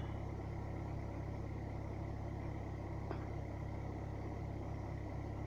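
Renault Megane 2's 1.5 diesel four-cylinder idling steadily just after a hard cold start at minus 13 °C, which took about eight turns of cranking to catch. A faint click about three seconds in.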